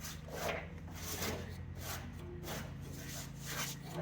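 Repeated wiping and scrubbing strokes on a truck's painted body panel, about one or two swishes a second, with a steady low hum underneath.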